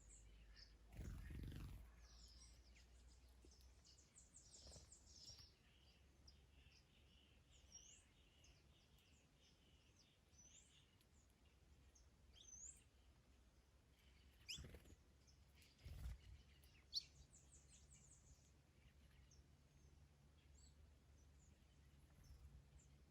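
Several songbirds chirping and singing faintly, with quick rattling trills and short rising whistled notes scattered through. A low rumble of wind on the microphone comes about a second in and again in the second half.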